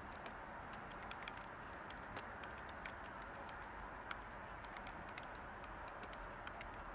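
Light typing on a computer keyboard: soft, irregular key clicks, several a second, over a steady white-noise hiss.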